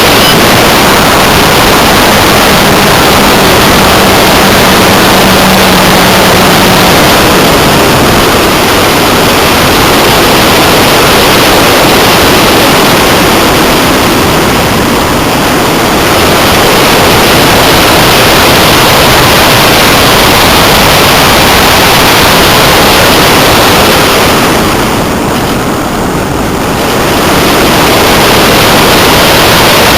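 Loud, steady wind rush on the onboard camera of a Multiplex Blizzard electric RC model plane in flight, with a faint motor hum in the first few seconds. The rush drops briefly twice, near the middle and near the end.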